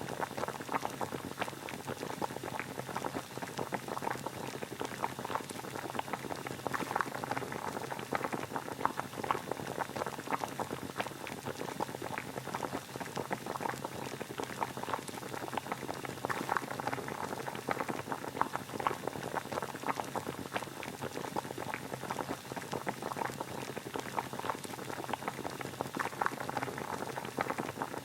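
Water boiling steadily: a continuous, dense crackle of small bubbles bursting.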